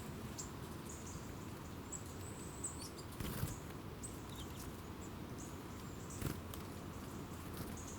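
Small wild birds giving short, very high, thin calls, repeated irregularly. There are two brief soft thuds, one near the middle and one near the end, over a low steady rumble.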